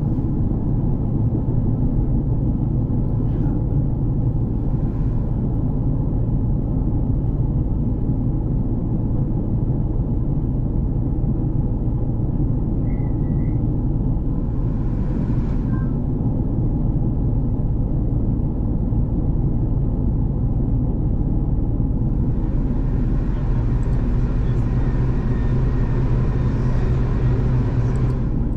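V/Line diesel passenger train running, a steady low engine and rail rumble. A louder hiss joins in about 22 seconds in.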